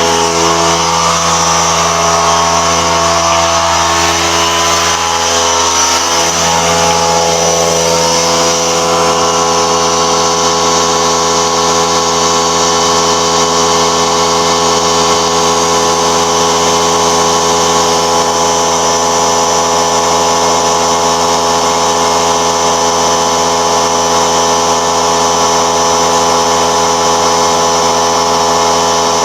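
A power tool's motor running steadily, with a slight change in its pitch about six seconds in.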